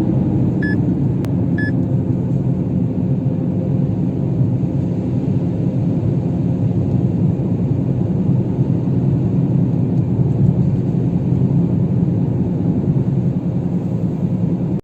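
Steady low drone of a failing front wheel hub bearing on a 2018 Kia Rio, heard from inside the cabin at road speed and blended with tyre and road noise. The owner finds the bearing worn after only 3000 km and suspects it was counterfeit. Near the start, two short electronic beeps sound about a second apart.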